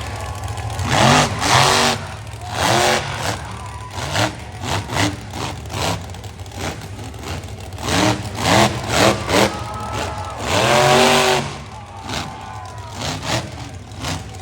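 Monster truck engine revving in repeated bursts, the pitch climbing and falling with each blip of the throttle. There are several quick blips, then one longer, loudest rev about ten seconds in, over a steady low rumble.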